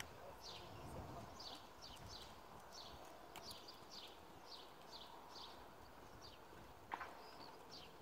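Faint bird calls: short, high, downward-sliding chirps repeated about two or three times a second, with one louder, sharper call near the end.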